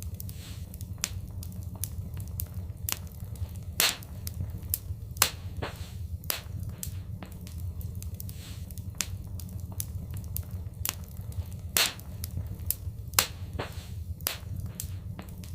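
Wood fire crackling in a fireplace: irregular sharp pops and snaps, a handful of them louder, over a steady low rumble of the burning fire.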